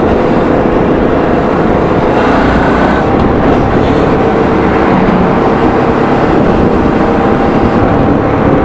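Suzuki V-Strom 650's V-twin engine running steadily while riding at speed, under heavy wind rush.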